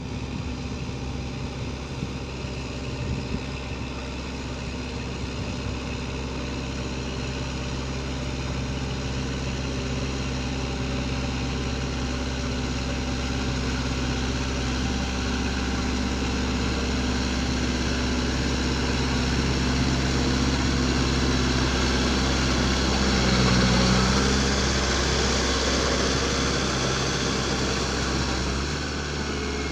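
Four-wheel tractor engine running steadily, growing louder to a peak about 24 seconds in and then easing off a little.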